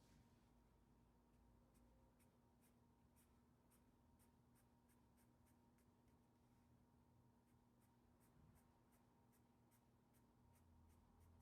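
Faint pencil strokes scratching on the drawing sheet, short strokes about three a second starting about two seconds in, over a faint steady hum.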